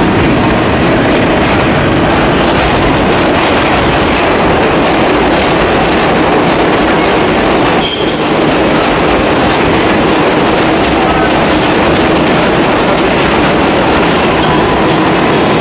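New York City subway train running on the track: a loud, steady rumble and rattle of wheels on rails, with a brief sharper sound about eight seconds in.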